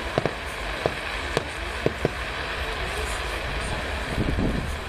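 Fireworks bursting overhead: several sharp cracks and pops at irregular intervals over the first two seconds, over a steady low rumble.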